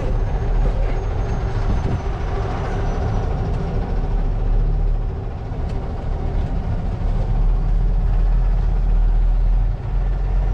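Semi-truck's diesel engine running steadily, heard from inside the cab.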